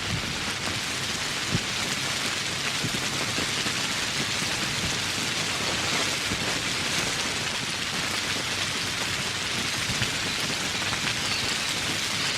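Steady heavy rain falling on foliage and the ground, an even hiss with scattered individual drops.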